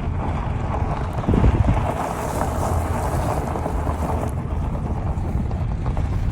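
Wind buffeting the microphone: a steady, unpitched rumble, gustier and louder from about a second in until about four seconds in.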